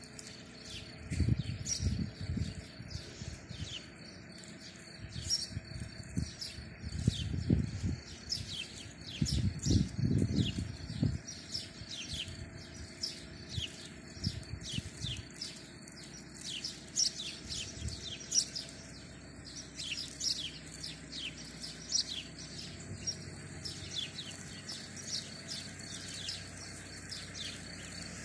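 Birds chirping and singing outdoors, a steady stream of quick high calls that slide down in pitch. Low thuds and rumbles come and go through the first half, loudest around ten seconds in.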